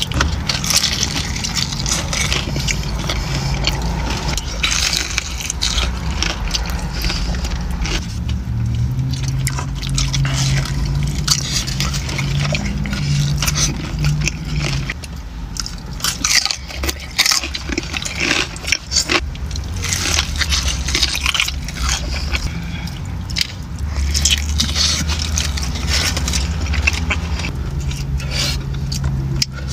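Close-up eating sounds of chicken wings: crunchy bites, chewing and wet mouth sounds, with many small crackles and clicks, over a steady low hum.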